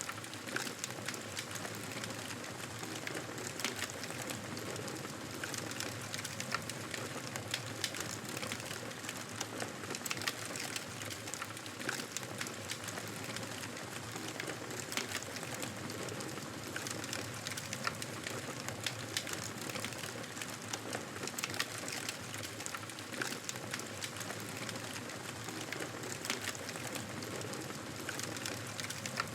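Wood fire in a fireplace crackling steadily, with frequent small sharp pops over a soft continuous hiss.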